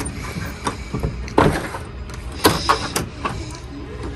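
A locked door being tried and knocked on: a series of sharp clicks and knocks from the handle and the door, spaced unevenly over a few seconds.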